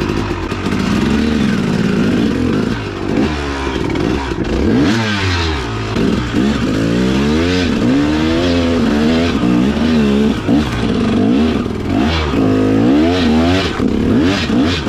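Dirt bike engine running, fairly steady at first, then revved up and down repeatedly, its pitch rising and falling. The engine case has just been patched with SteelStik epoxy putty.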